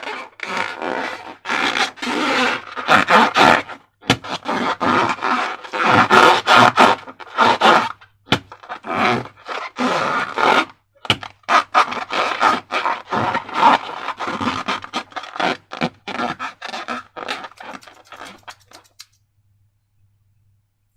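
Slime being worked by hand: a continuous run of crackly scraping noises in quick bursts that stops near the end.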